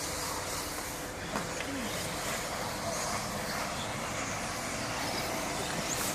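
Radio-controlled 4WD model racing cars running on the track: a steady wash of motor and tyre noise with a few faint short whines rising and falling in pitch.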